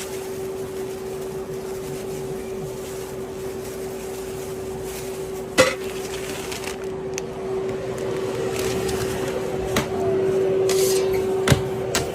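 A steady mechanical hum with a few sharp knocks or clinks, the loudest about halfway through and two more near the end.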